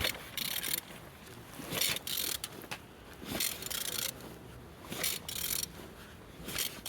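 Opel A12XER 1.2 petrol engine being turned over by hand with a wrench, a rasping ratchet-like stroke about every second and a half, five times. The engine turns over freely.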